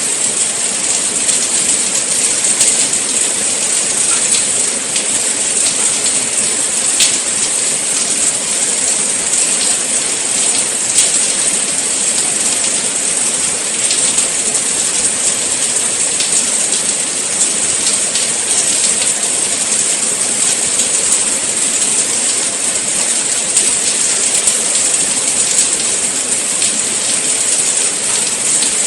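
Steady rain falling: an even, unbroken hiss with faint scattered ticks of individual drops.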